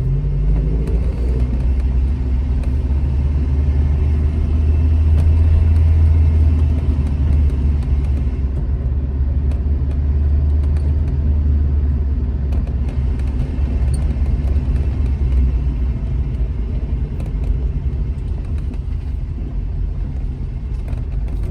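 Alfa Romeo GT Junior's twin-cam four-cylinder engine running steadily while driving, a deep even drone that swells a little around five to seven seconds in.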